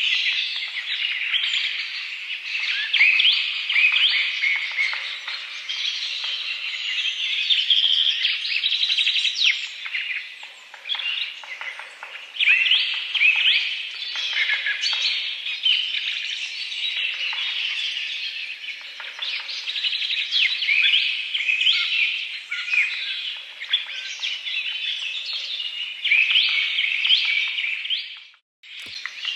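Many small birds chirping and twittering together in a dense, continuous chorus of short, high calls. Near the end it breaks off for a moment, then resumes.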